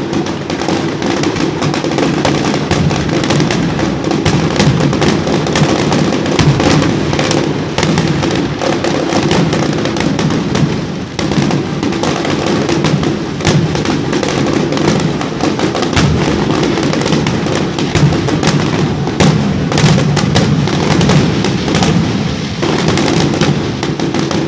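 Fireworks going off in a continuous barrage of sharp bangs and crackles, with music playing underneath.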